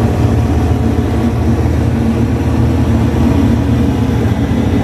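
Lockheed C-130 Hercules military transport's four turboprop engines running with a steady low drone.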